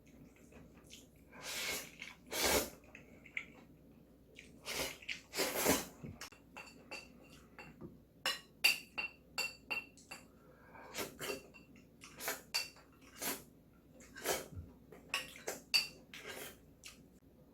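Eating bibim noodles from a bowl: a few noisy slurps in the first half, then a quick run of sharp clinks of utensils against the bowl, each ringing briefly.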